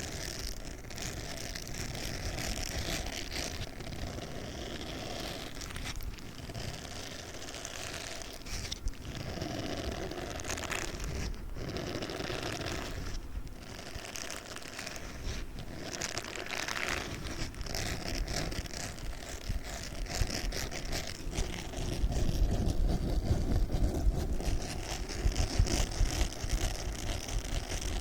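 A spiky sponge handled close to the microphone, giving a continuous crackly scratching and squishing noise that gets louder over the last several seconds.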